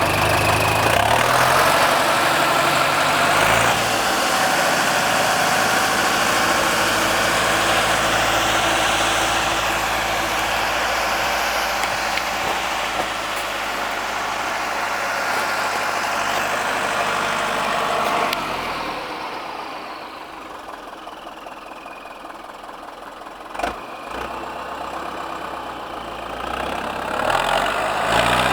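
Deutz DX 4.70 tractor's turbocharged diesel engine running through a straight pipe. It runs loud and fast, drops to a quieter low speed about two-thirds of the way through, then picks up again near the end.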